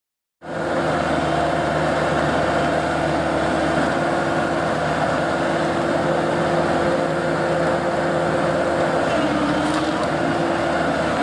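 Excavator running a firewood processor head: a steady engine and hydraulic hum with several held tones, starting abruptly just under half a second in.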